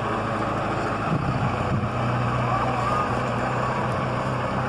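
Motor vehicle running, with a steady rush of road and wind noise and a low engine hum that settles into an even note about a second and a half in.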